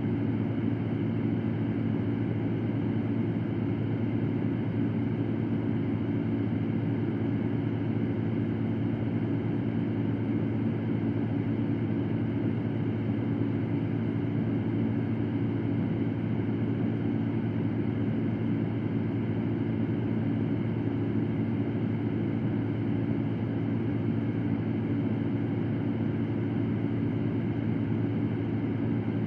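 Electric fan running steadily: a low hum under an even rushing hiss, unchanging throughout.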